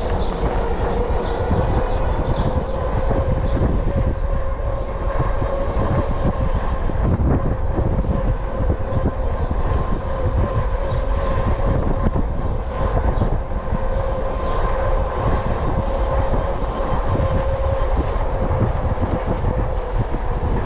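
Lectric XP Lite e-bike under way: a steady electric motor whine over rumbling road noise and wind buffeting the microphone.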